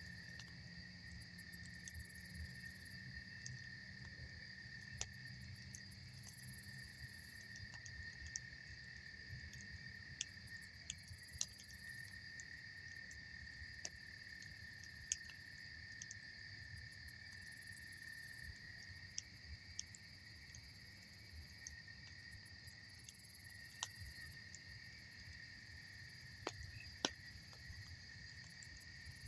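Campfire crackling, with scattered sharp pops, two of them louder about halfway through and near the end, over the steady high-pitched trilling of crickets.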